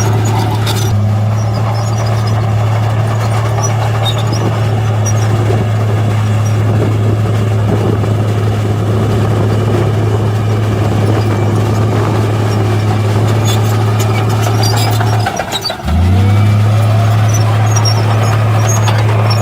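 Heavy diesel engine of construction machinery running at a steady low hum; about 15 seconds in it briefly drops away, then rises back to the same steady speed.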